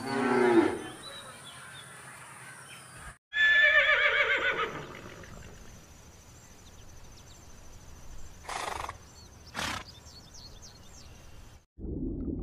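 A cow moos once, then a horse whinnies with a wavering, high-pitched call. Two short breathy noises follow a few seconds later, and water starts bubbling steadily near the end.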